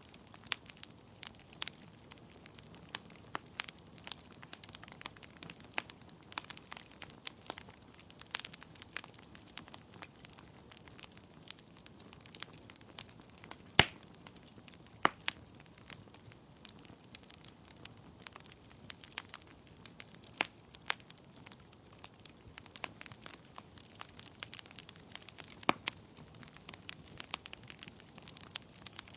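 Wood logs burning in a fireplace: irregular sharp crackles and pops over a faint steady hiss, with one loud pop about halfway through.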